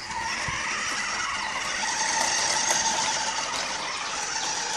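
Remote-controlled toy monster truck's electric motor and gearbox whirring steadily as it drives, a high whine that starts suddenly.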